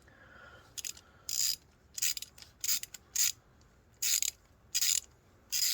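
Ratcheting tap wrench clicking in about eight short bursts, roughly every half second to second, as a tap is worked back and forth through a damaged M10 nut to rethread it.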